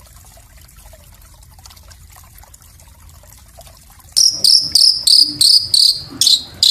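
Small songbird singing a rapid-fire series of short, high, repeated notes, starting loudly about four seconds in after faint background noise; the notes come about three a second and quicken toward the end.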